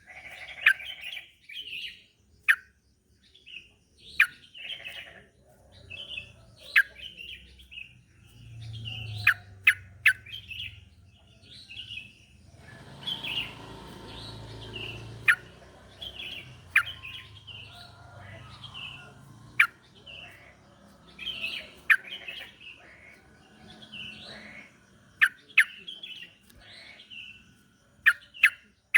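Yellow-vented bulbul (trucukan) singing: short, bubbly chirping phrases repeated over and over, with sharp loud clicks in between and a low rumble partway through. It is a song used to stir a caged bulbul into singing.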